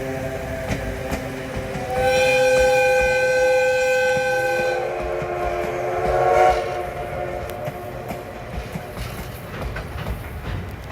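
Steam whistle of the Oigawa Railway's Thomas the Tank Engine locomotive blowing a long blast about two seconds in, followed by a second, lower blast. The train's running clatter on the rails continues underneath and after.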